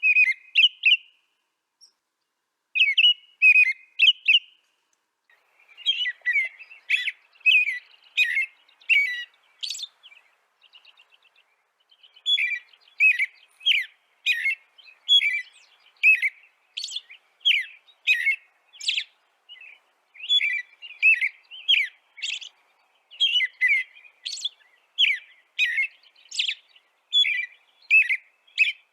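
A songbird chirping in runs of short, high, quick notes, one or two a second, with short lulls about two seconds in and around the middle. There is no other sound behind it.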